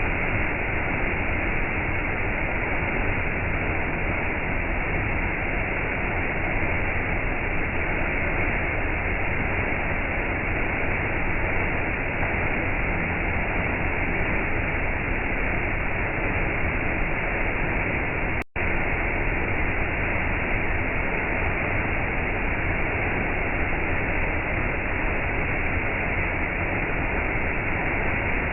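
Waterfall's steady rush of falling water, dull with no high hiss, broken once by a split-second dropout about two-thirds of the way through.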